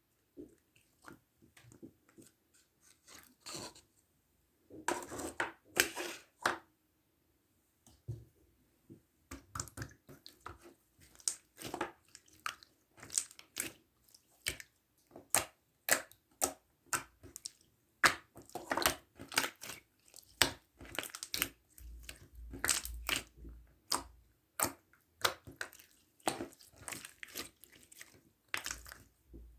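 Glitter foam-ball slime (floam) being squeezed and kneaded by hand, its foam beads crackling and popping in quick runs of small crunches. There is a short pause after about seven seconds, then steady crackling.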